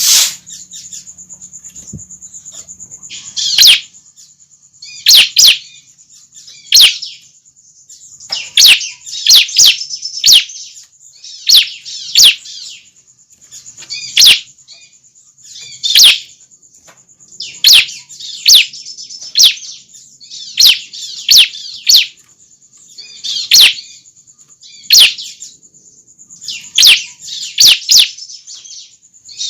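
Juvenile bar-winged prinias (ciblek) calling: sharp, high chirps, singly and in quick clusters, every second or two, over a faint steady high-pitched tone.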